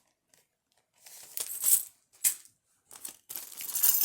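Metal jewelry clinking and rattling as necklaces are handled: a run of small jingles, one sharp click a little after two seconds, then more rattling near the end.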